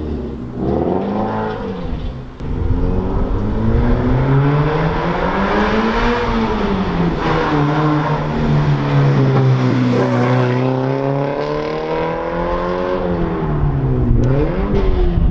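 Subaru BRZ's flat-four engine running with both mufflers removed, exhausting straight out of an unresonated mid-pipe. The note is loud and farty, and its pitch climbs and falls several times as the car accelerates and eases off, holds steady for a couple of seconds near the middle, then rises again near the end.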